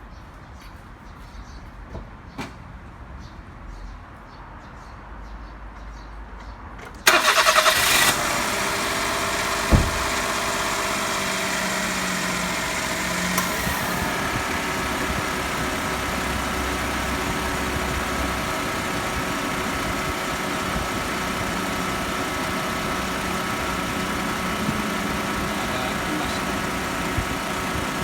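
A car engine is cranked by its starter about seven seconds in, catches within about a second, and then idles steadily.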